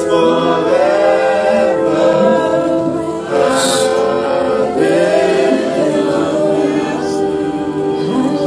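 A choir or congregation singing a gospel worship song together.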